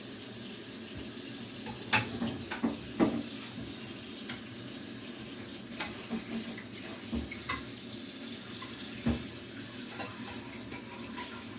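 Kitchen tap running steadily into the sink, with a few sharp knocks and clinks of dishes or containers, the loudest about two, two and a half, three and nine seconds in.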